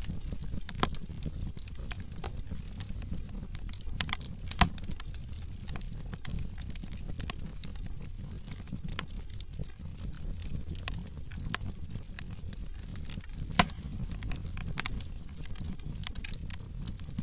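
Logs burning in a fireplace, crackling: a steady run of small snaps over a low rumble, with two louder pops, one a few seconds in and another later on.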